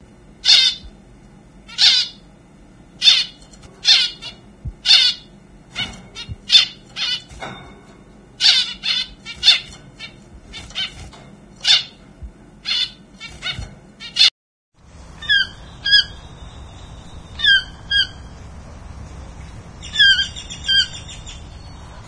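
Harsh, raspy bird squawks repeated about once a second. After a short break, a different, thinner squeaky bird call comes in pairs.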